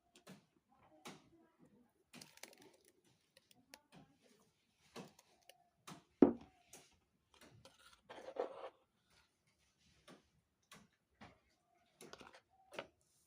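Scattered light clicks and knocks with some rustling, and one sharper knock about six seconds in.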